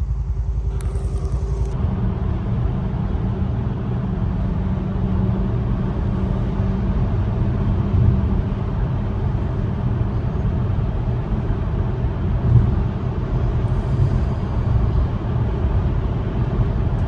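Steady low road rumble of a moving vehicle heard from inside the cabin, tyres and engine running at cruising speed; the sound thickens about two seconds in.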